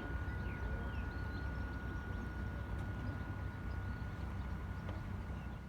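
Radio-controlled boat's motor whining at one steady pitch, over a low rumble of wind on the microphone, with a few short bird chirps in the first second.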